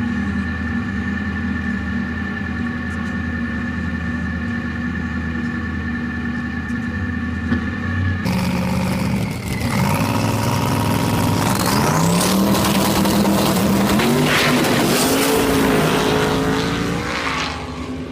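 Twin-turbo LS V8 drag car: the engine runs at a steady speed for about eight seconds, then a full-throttle pass climbs in pitch through several gear changes and cuts off near the end.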